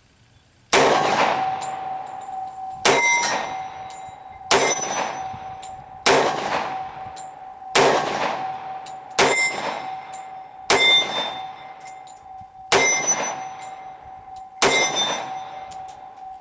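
Smith & Wesson Model 1006 10mm pistol fired nine times at a slow, even pace, one shot every second and a half to two seconds, emptying its nine-round magazine. Each loud shot trails off in echo, and a steady ringing tone hangs between the shots.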